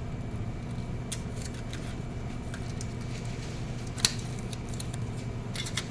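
A steady low hum of background machinery with scattered small clicks and handling noises, including one sharp click about four seconds in and a short run of clicks near the end.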